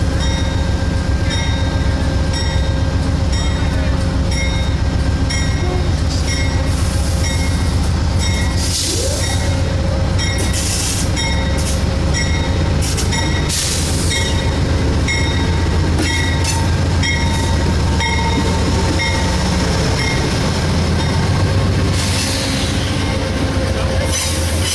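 Train rolling past, a heavy steady rumble with its wheels clicking over rail joints at an even beat of about one and a half clicks a second. Bursts of high wheel squeal come through several times, most strongly near the end.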